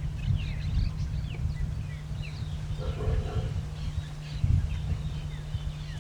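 Several birds calling with short, quick whistled notes and chirps, over a steady low rumble. About halfway through there is a brief, lower call.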